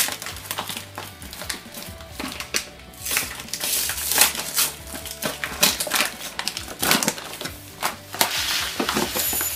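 Paper bag of rice being crinkled and pulled open, with irregular crackling and rustling. Near the end a steady hiss begins as rice starts pouring out into a glass measuring cup.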